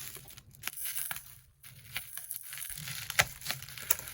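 Packaging of a box of sublimation mugs being opened by hand: irregular crinkling and tearing, with scattered clicks and a sharp tap about three seconds in.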